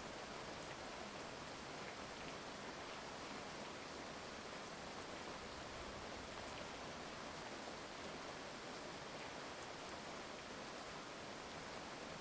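Heavy rain falling steadily, an even hiss with faint scattered drop ticks and no thunder.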